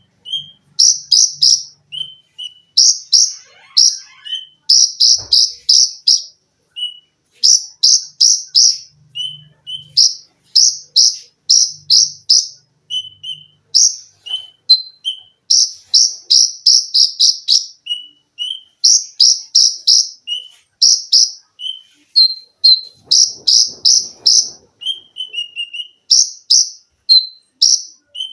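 Konin singing loudly: quick runs of three to five short, shrill notes repeated about once a second, with softer single lower notes in between.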